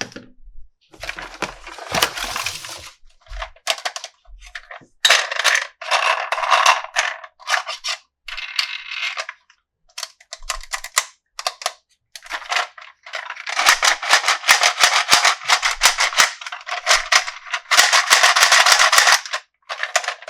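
Toy packaging being handled and opened: plastic and cardboard crinkling and rustling in irregular bursts, with sharp clicks in between.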